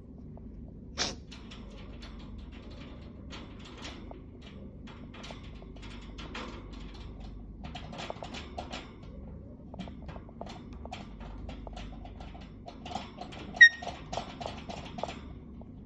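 Pet parrot: scattered light clicks and taps, with a sharp click about a second in and one brief high chirp near the end.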